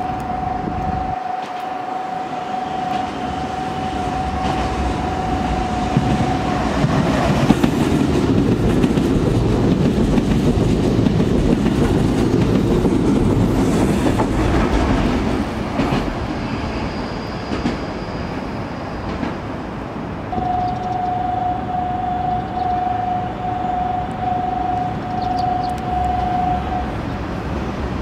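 Nankai Railway electric train passing through a station at speed without stopping. A low rumble with clattering wheels builds to its loudest in the middle and then eases off. A steady high electronic tone sounds over the first few seconds, and a pulsing tone at about one and a half beats a second sounds near the end.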